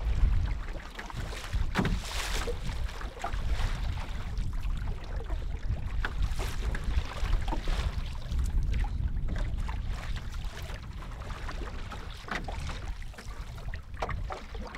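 Strong wind rumbling on the microphone, with scattered short splashes and knocks from a canoe on choppy water.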